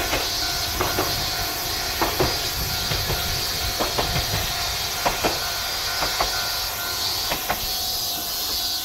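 KiHa 52 diesel railcar running past, its wheels clicking in pairs over the rail joints about once a second over a steady running noise.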